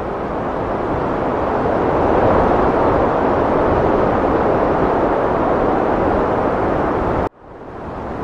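Heavy wind: a loud, steady rushing that swells a little, then cuts out abruptly about seven seconds in and rises back within a second.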